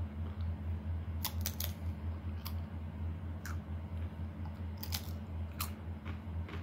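Sharp, crisp crackles of Doritos tortilla chips being handled and crunched, about nine short clicks scattered through, over a steady low electrical hum.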